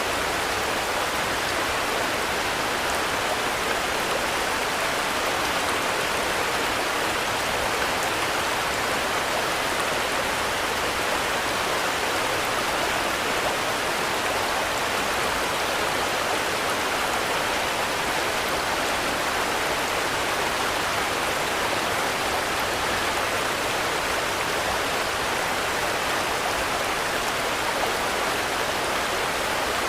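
Steady rainfall, an even hiss that holds the same level throughout, with no thunder or separate drops standing out.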